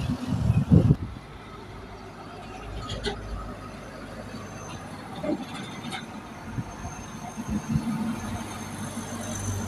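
Heavy trucks running along a highway, engines rumbling. The sound is loudest in the first second, drops to a steadier, lower hum, then builds again near the end as another vehicle approaches.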